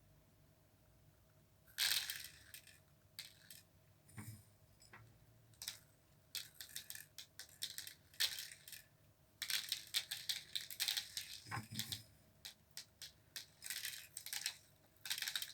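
Loose bird seed sprinkled by hand, the small hard seeds falling and bouncing onto paper as irregular runs of light ticks and rattles. The ticking starts about two seconds in and grows thicker in the second half.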